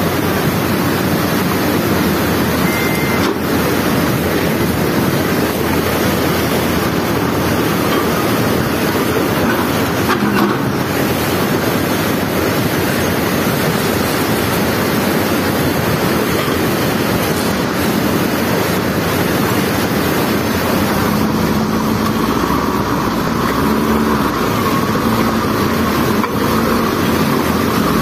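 Cold lahar floodwater rushing in a steady, loud noisy flow. A low steady hum joins about three-quarters of the way through.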